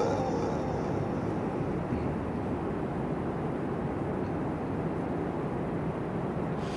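Steady low rumble and hiss of background noise, with the reciter's voice dying away in the room's echo just at the start.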